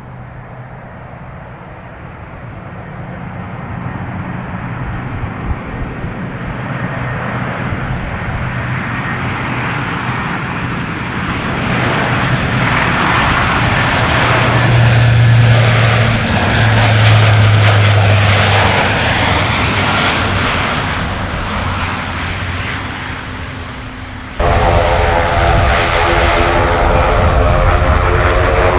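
An aircraft's engines growing louder as it approaches and passes, the low engine tone dropping in pitch about halfway through. About three-quarters of the way in the sound cuts abruptly to a louder, steadier aircraft engine close by.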